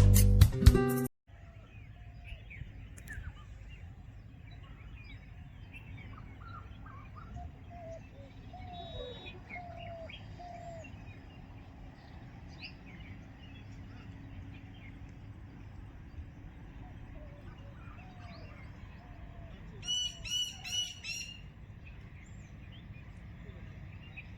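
Guitar music cuts off about a second in, then outdoor ambience: many birds calling and chirping over a low steady rumble, with a short louder run of rapid repeated chirps near the end.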